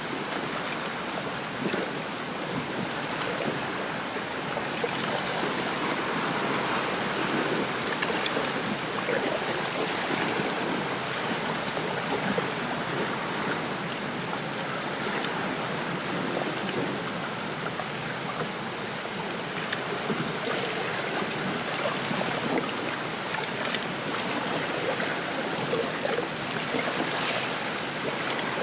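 Wind rustling through a lakeshore reed bed with small waves lapping at the shore after a storm, a steady wash of noise with many small splashes and rustles through it.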